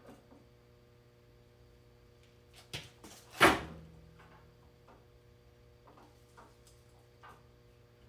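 A single loud clunk about three and a half seconds in, with a smaller knock just before it. Both sit over a steady hum and faint scattered ticks.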